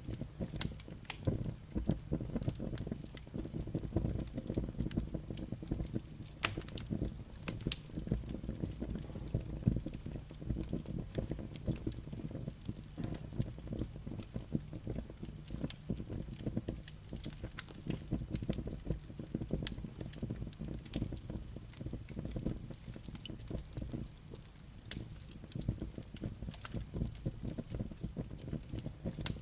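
Wood fire burning in a fireplace: a steady low rumble of flames with frequent, irregular sharp crackles and pops from the burning logs and embers.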